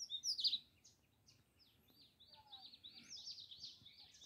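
Small birds chirping: many short, quick calls overlapping, a loud cluster in the first half second and a busy run of chirps through the second half.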